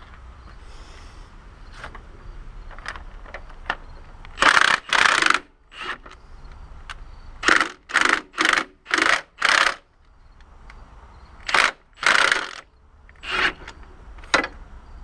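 Hand ratchet with a 17 mm socket clicking in short runs of back-strokes while loosening fasteners on the engine, about a dozen quick strokes in groups.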